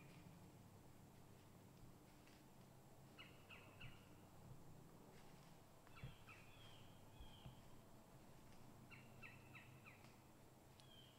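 Faint bird calls: short groups of three or four quick, falling notes, repeated about every three seconds over a low steady hum.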